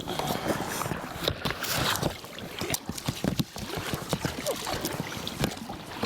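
A small rowing boat being rowed by hand, with irregular knocks and water noise from the oars working.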